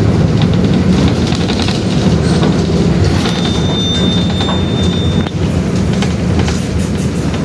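Mercedes-Benz OF-1721 BlueTec 5 bus's diesel engine running steadily, with constant rattling and clicking from the bus body. A thin high whine comes in for about two seconds in the middle.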